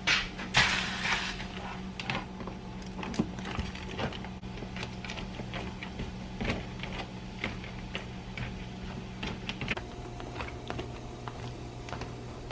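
Scattered clicks and knocks over a steady low mechanical hum, after a brief rustling burst at the start; the hum changes about two-thirds of the way through.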